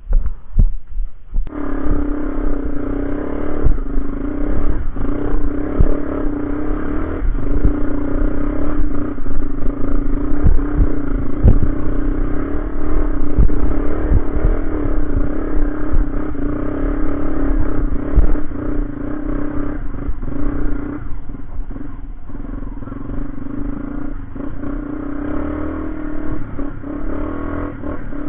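Motorcycle engine running at a steady speed, with rattling and knocking over a low rumble; the sound cuts in abruptly about a second and a half in and eases a little after about twenty seconds.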